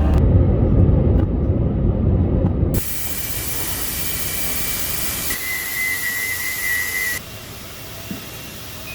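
Edited run of jet airliner noise: a heavy low rumble, cutting to a steady hiss, with a high steady whine for about two seconds in the middle, then a quieter hiss.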